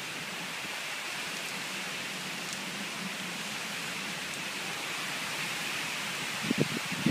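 Steady hiss of rain falling, with a few short low bumps near the end.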